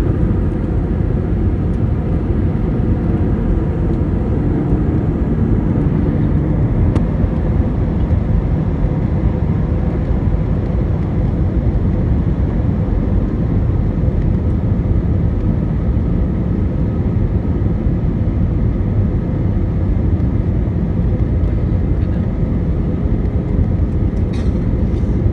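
Steady jet airliner cabin noise on the approach to landing: an even low rumble of engines and rushing air with a faint constant hum.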